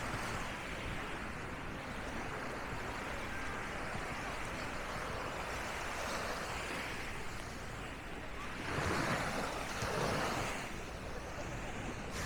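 Sea waves washing onto a sandy beach: a steady rush of surf that swells louder twice near the end.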